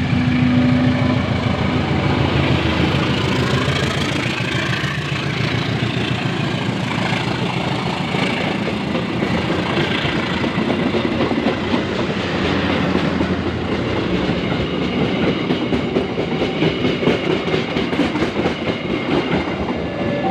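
A train passing close by: a steady rumble of wheels on the rails with rapid clattering over the rail joints.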